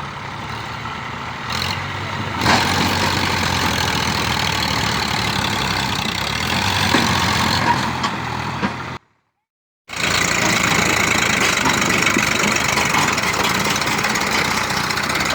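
Tractor engine running steadily outdoors, with a brief dead silence of about a second near the middle where the footage cuts, then engine noise again.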